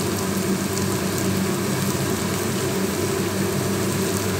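Onions and ginger-garlic paste sizzling steadily in hot oil in a pan, with no stirring, over a steady low hum.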